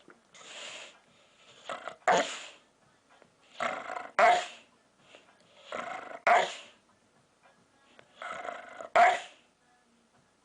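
A dog vocalising four times, about every two seconds: each call is a drawn-out, noisy growl-like lead-in that ends in a short, louder bark.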